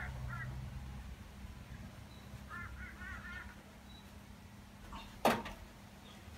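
A bird calling in runs of short, quick repeated notes, once at the start and again about three seconds in, with a single sharp click a little past five seconds.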